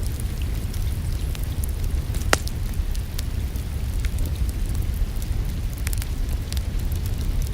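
Wood fire crackling with scattered sharp pops, the loudest a little over two seconds in, over a steady low rumble of rain.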